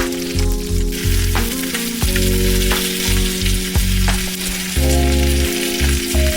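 Food frying in hot oil, a steady sizzle with scattered pops and crackles, over background music with held notes and a pulsing bass.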